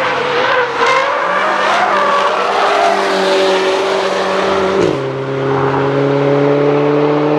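A car driven hard on a race track, with tyre squeal in the first few seconds over the engine note. About five seconds in, the engine pitch drops sharply, as at a gear change, then holds steady and climbs slowly.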